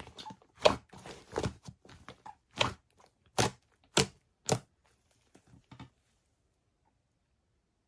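Slime being handled: a run of sticky pops and crackles that stop about six seconds in.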